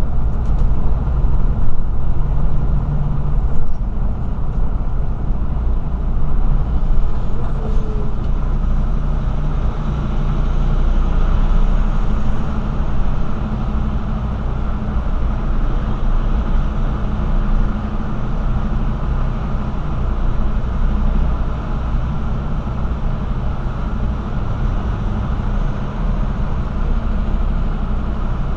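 Truck engine and road noise while driving: a steady low rumble.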